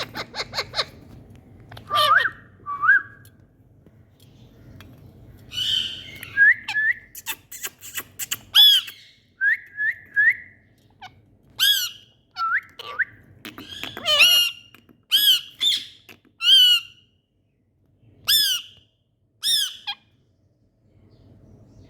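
Indian ringneck parrots squawking and giving short, sharp whistled calls that rise and fall in pitch, repeated about once a second, with a quick rattling chatter at the start.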